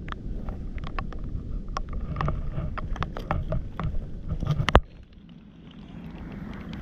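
Irregular small clicks and taps over a low rumble of wind on the microphone. One sharp knock comes about three quarters of the way through, after which it goes quieter.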